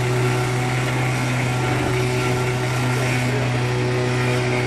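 Off-road 4x4's engine running at steady raised revs, a continuous even drone, while the vehicle winches itself out of swamp mud.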